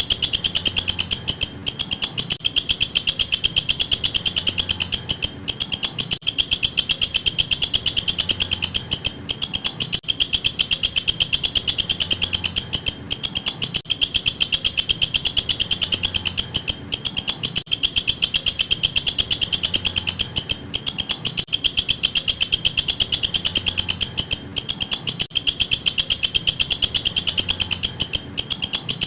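Walang kecek katydid calling: a fast, continuous ticking trill, high-pitched and insect-like, broken by a short pause about every four seconds. A faint low hum lies underneath.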